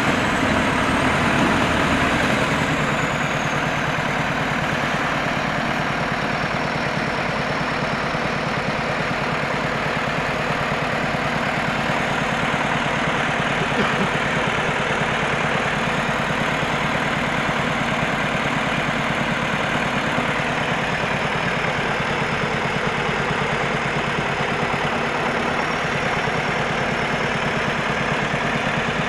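Heavy diesel engine of a KAMAZ log truck running steadily. It eases down from higher revs in the first couple of seconds, with a high whine falling in pitch, then settles to an even idle.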